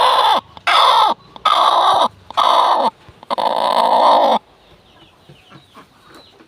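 Domestic hen on her nest laying an egg, giving five loud, harsh, raspy calls about a second apart, the last and longest ending about four seconds in.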